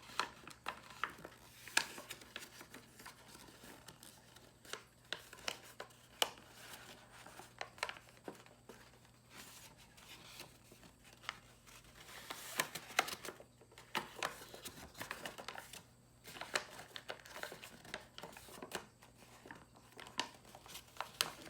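A square of origami paper being opened out and folded by hand: scattered crackles and rustles of stiff paper, busiest a little past the middle.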